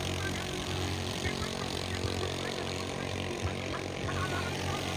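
A large engine running steadily at an even low pitch, with a few brief knocks over it.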